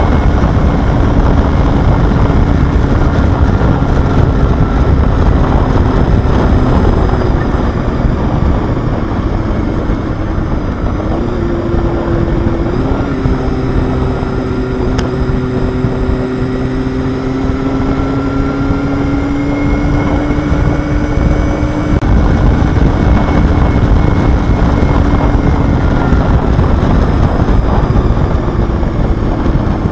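Honda Hornet motorcycle engine running steadily under way, its pitch drifting slowly up and down with a quick step up about eleven to thirteen seconds in, over a heavy low rumble. The bike has a chamfered exhaust port, a change meant to make it rev more smoothly at high rpm.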